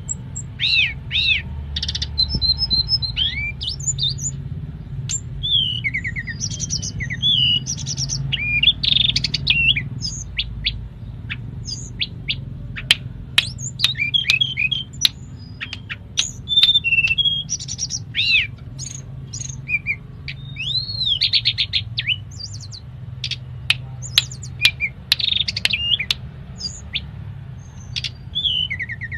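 Tledekan gunung songbird singing a busy song of quick whistled phrases and chirps, with mimicked bits of other birds' songs such as cimblek and canary. The song has short rising and falling notes and sharp clicks over a steady low hum.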